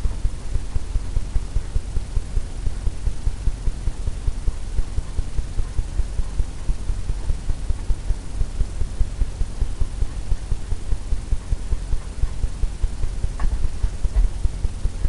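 Rapid, low, muffled thumps, about four or five a second, from an oil-paint fan brush tapping and stroking white onto a stretched canvas, the canvas resonating like a drumhead.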